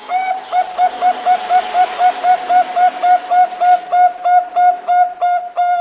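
Zebra dove (perkutut bangkok) cooing: a fast run of about twenty short, evenly spaced notes, about four a second, closing with a longer held note.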